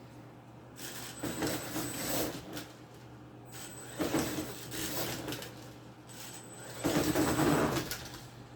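Venom Mini Giant brushless electric RC monster truck driving in three short bursts, its tires and gears louder than the quiet motor, with a thin high-pitched whine while it runs.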